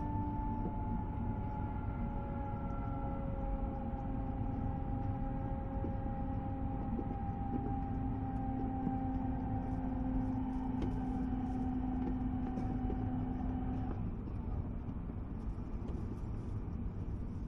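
E2-series Shinkansen motor car running on the line, with the whine of its Siemens/Toshiba GTO-VVVF inverter traction drive sliding slowly down in pitch as the train slows, over a steady rumble of wheels on rail. The inverter whine cuts off abruptly about 14 seconds in, leaving only the rumble.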